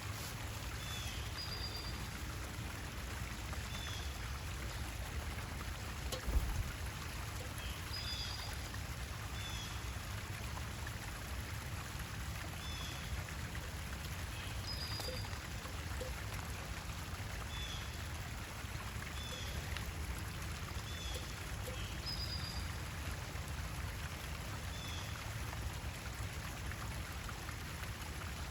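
Water trickling steadily, with short high bird chirps repeating every second or two. A brief thump about six seconds in.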